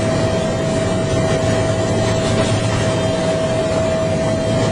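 Bell UH-1H Huey helicopter running: a steady high turbine whine over the low rumble of the engine and rotor.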